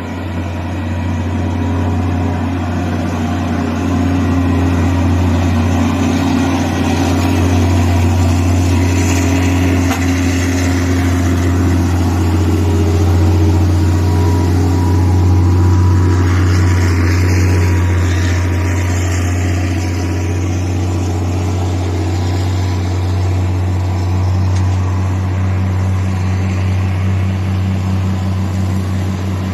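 Isuzu 360 heavy truck's diesel engine pulling steadily at road speed in a high gear, a loud continuous low drone that swells slightly and eases off again.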